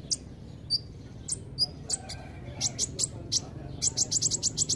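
Kolibri ninja sunbird calling: short, sharp, high chirps, spaced out at first, then a quick run of about eight in under a second near the end.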